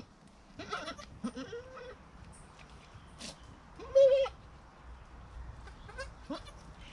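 Goats bleating: a wavering call about a second in, then a short, louder bleat about four seconds in.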